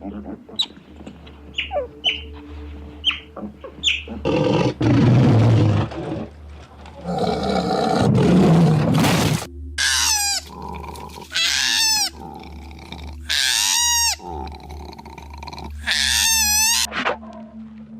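A run of animal calls: a few short chirps, then two low, rough roars or grunts, then four loud drawn-out calls, each about a second long with a wavering pitch.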